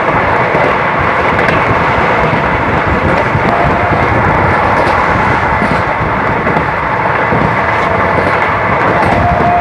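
Steady loud rush of a moving passenger train heard from an open coach doorway: wheels running on the rails and wind, with a thin tone that comes and goes.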